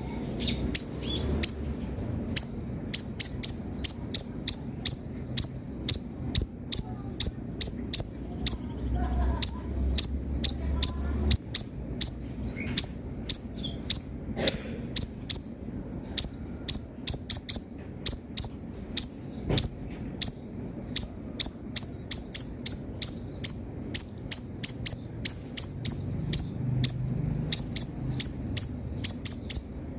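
Kolibri ninja sunbird singing vigorously: a fast, steady run of short, high-pitched chirps, several a second, broken by brief pauses.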